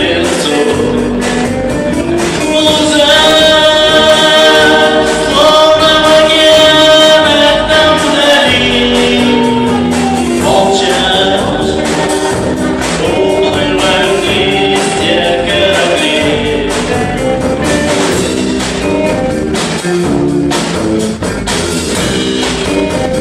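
Live band playing a song: sung vocals over electric guitars, bass guitar and a drum kit, with long held sung notes in the first half.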